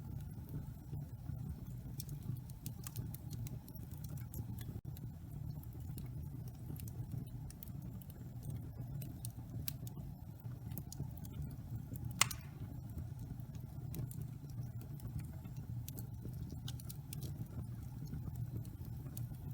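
Wood fire burning in a fireplace: a steady low rumble of the flames with scattered small crackles, and one louder pop about twelve seconds in.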